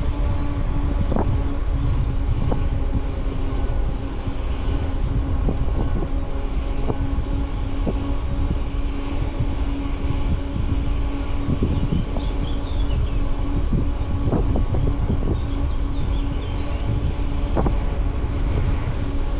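Bicycle riding seen from a handlebar-mounted camera: wind buffeting the microphone and tyres rolling over the path, with a steady hum and frequent sharp knocks and rattles from the bike going over bumps. Faint bird chirps about twelve seconds in.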